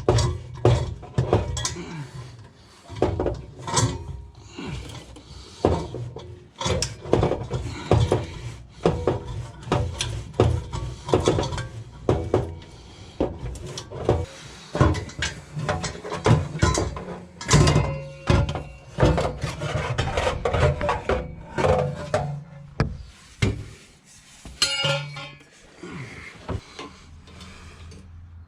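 Irregular metallic clanks, knocks and scraping of hand tools working on a car's exhaust system, with music playing in the background.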